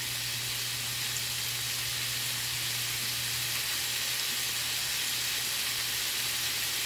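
Sliced smoked turkey sausage frying in oil in a pan, a steady sizzle that grows slightly louder.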